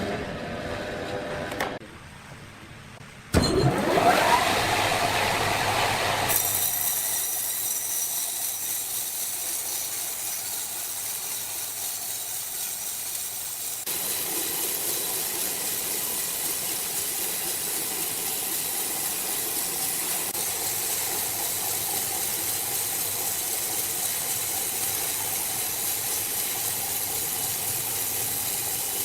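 Sawmill machinery: a motor starts suddenly about three seconds in and runs up with a rising whine, then settles into a steady, hissing machine noise that steps up a little around halfway.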